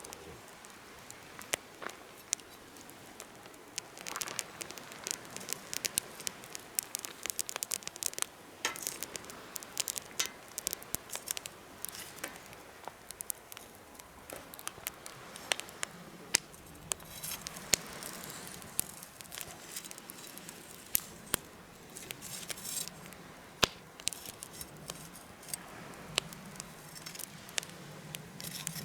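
Campfire burning, with frequent irregular sharp pops and crackles over a soft hiss.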